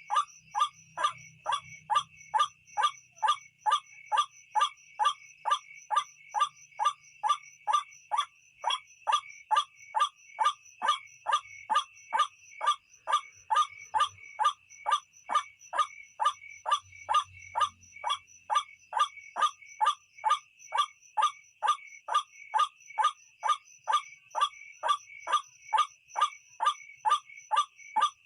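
White-breasted waterhen (ruak-ruak) call played as a lure recording: the same short note repeated evenly, about twice a second, over a steady high insect-like buzz.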